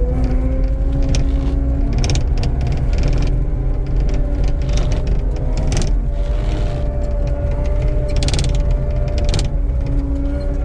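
Skid steer running steadily, with a steady whine over its engine rumble and two spells of metallic clattering, about two seconds in and again about eight seconds in.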